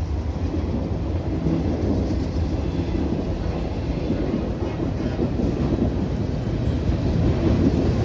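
Freight train cars rolling past with a steady rumble of wheels on rail.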